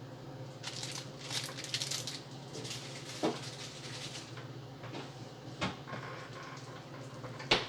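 Rustling and a few sharp light knocks from handling food and packaging while a sandwich is made, over a steady low hum. The rustling comes in short bursts in the first couple of seconds, and single knocks follow about three, five and a half, and seven and a half seconds in.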